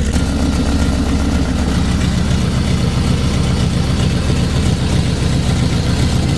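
VAZ-2114 four-cylinder engine running steadily through a 4-2-1 'Subaru Sound' header and a straight-through 51 mm exhaust, giving a steady low exhaust note.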